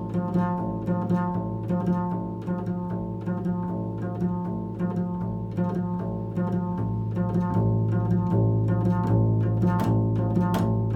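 Improvised instrumental music on a string instrument: quick repeated plucked notes over a sustained low pitch.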